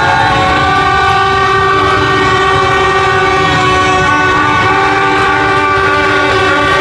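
Many horns blaring at once in overlapping held tones of different pitches, over the steady rumble of dense motorbike traffic in a celebrating street crowd.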